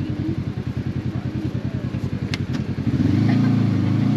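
Side-by-side UTV engine running at low revs with an even, rapid pulse, then revving up and getting louder about three seconds in. Two sharp clicks a little past the middle.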